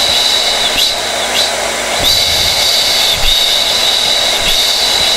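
Hair dryer running continuously: a steady rush of blown air with a high-pitched motor whine that wavers and briefly dips every second or so.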